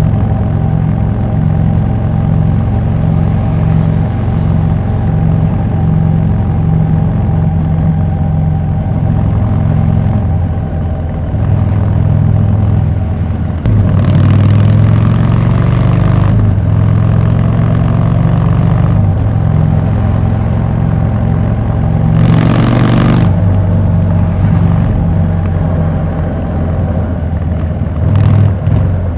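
Harley-Davidson Street 750's V-twin running through a Vance & Hines slip-on exhaust. It gets louder about halfway through as the throttle opens, and a brief rush of noise comes later.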